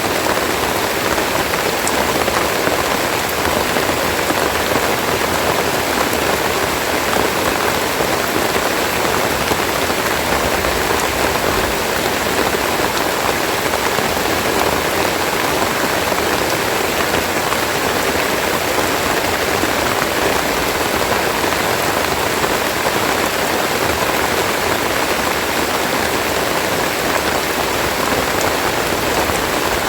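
Rain falling steadily, a dense even patter of drops.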